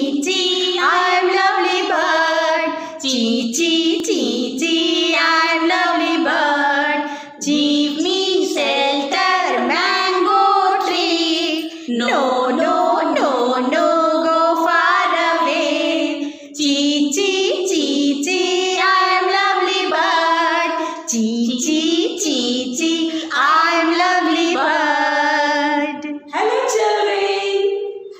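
A high voice singing a song in phrases, with short pauses between them.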